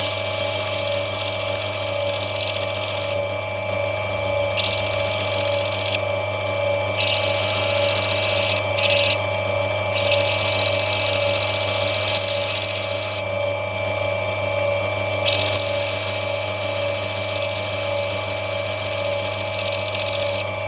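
Steady hum of a lapidary grinding machine's motor. A gritty hiss comes and goes in spells of one to five seconds each time an opal is pressed against the water-fed wheel to trim it back.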